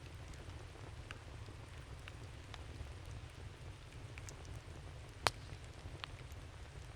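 Campfire of burning wood crackling, with scattered sharp pops over a low steady rumble. One loud pop comes about five seconds in.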